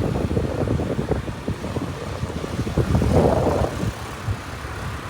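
Wind buffeting the microphone: an uneven low rumble with a stronger gust about three seconds in.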